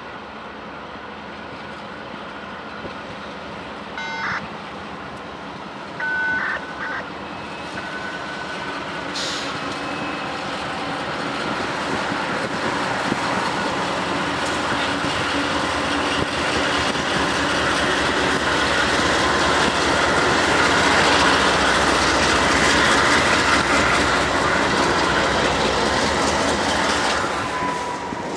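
CSX diesel locomotives leading a train of autorack cars approach and pass close by. The engine drone and wheel noise build steadily to a peak about two-thirds of the way through, then the autoracks rumble and clatter past. Two short high tones sound about four and six seconds in.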